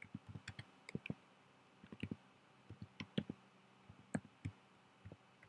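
Computer keyboard keys clicking in irregular clusters with short pauses, as a command is typed to start a server.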